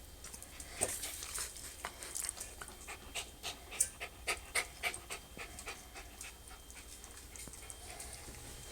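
Maltese puppies eating their first dry kibble: a quick, irregular run of small crunching clicks from about a second in until about six seconds, then quieter.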